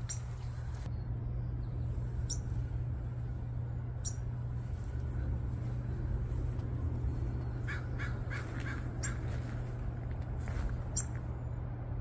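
Birds calling outdoors: one bird gives four short calls in quick succession about eight seconds in, while thin high chirps come every second or two, over a steady low rumble.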